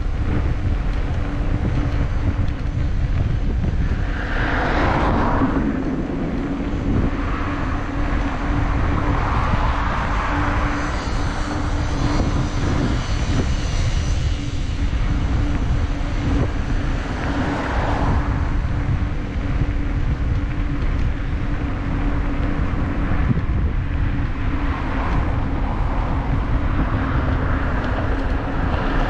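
Wind rumbling on the microphone of a moving bicycle, with a steady low hum and several vehicles swelling up and fading away as they pass.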